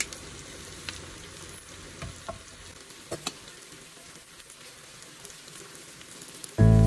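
Long beans frying in a pan: a low steady sizzle with scattered small crackles and pops. Loud music starts abruptly just before the end.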